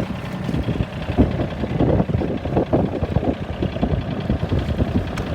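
Tractor engine running, with many irregular knocks and rattles over it from about a second in.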